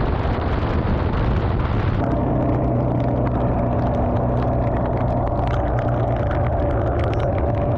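Suzuki DR650's single-cylinder engine running steadily at road speed, with dense rushing noise around it; its note changes about two seconds in and then holds.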